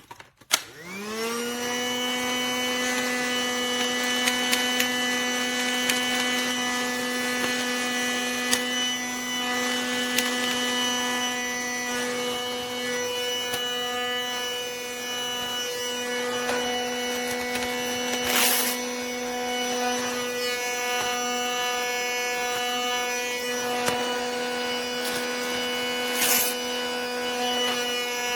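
Small electric motor of a Casdon Dyson toy cordless vacuum switched on with a click, rising in pitch over about a second and then running with a steady whine. There is a brief rattle about two-thirds of the way through and another near the end.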